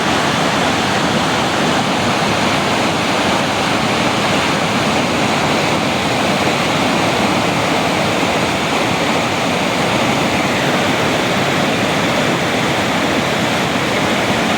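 Fast-flowing mountain river rushing over rocks, a loud, steady wash of water noise.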